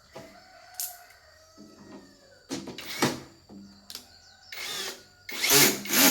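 Tool and handling noises during repair work: a few light clicks, then rough scraping or rattling bursts, the loudest near the end.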